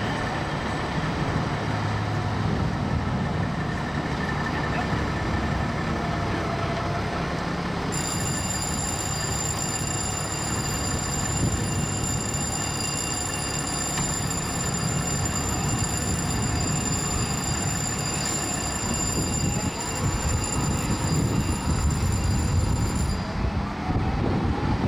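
Heavy city traffic noise with the deep engine rumble of large vehicles. A faint siren wail rises near the end.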